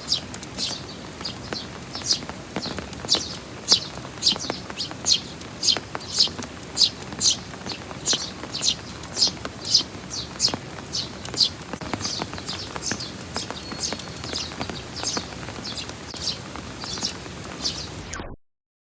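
Eurasian tree sparrow chirping over and over, about two short high chirps a second, growing sparser and fainter after about twelve seconds, over the steady hiss of heavy rain.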